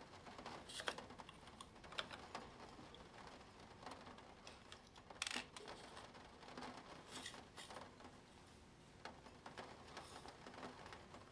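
Plastic Spirograph pieces being handled and drawn with: soft, irregular clicks and taps with short scratchy stretches, and one sharper, louder click about five seconds in.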